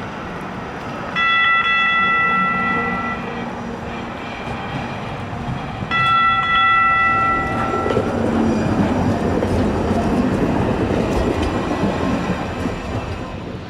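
Light rail train sounding two horn blasts of about two seconds each, a few seconds apart, then rolling past with a rumble of wheels and motors.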